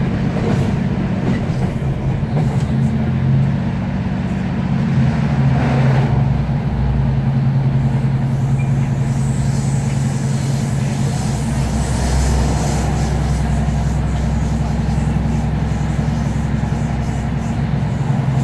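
Class 156 Super Sprinter diesel multiple unit on the move, its underfloor Cummins diesel engine droning steadily over the running noise of the wheels on the rails. A deeper rumble joins about halfway through.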